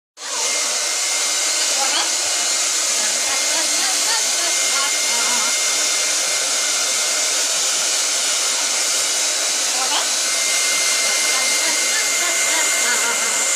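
Hair dryer blowing steadily: a constant rushing hiss with a faint, steady whine.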